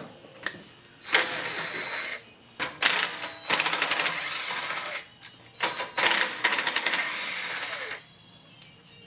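Rapid mechanical clicking from a hand or power tool working on the small four-stroke engine, in about five bursts, the longest running about two seconds before it stops near the end.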